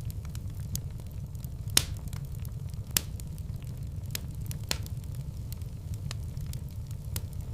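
Wood fire burning in a fireplace: a steady low rumble with scattered sharp crackles and pops, two louder pops about two and three seconds in.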